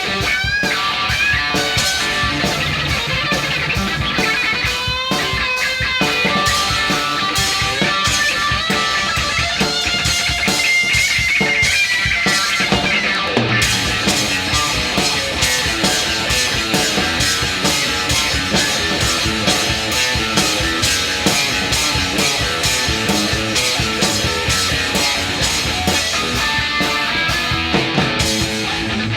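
Live instrumental hard-rock band: electric guitar, bass guitar and drum kit playing together, with the lead guitar bending notes a few times in the first half.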